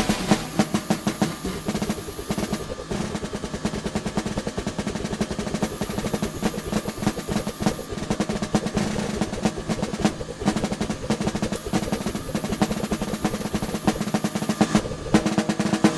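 Drums played in rapid, dense strokes, close to a continuous roll, with a steady drum pitch underneath.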